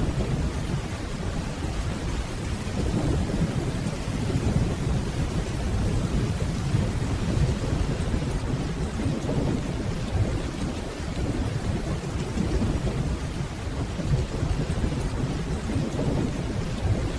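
Steady rainfall with a continuous low rumble of distant thunder that swells and eases.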